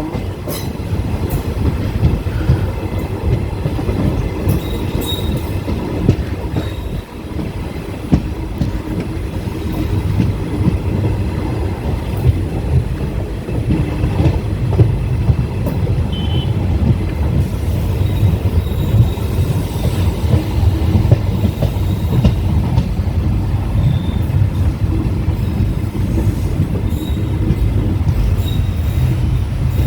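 Passenger train running along the line, heard from inside a coach: a steady low rumble of wheels on track with scattered knocks.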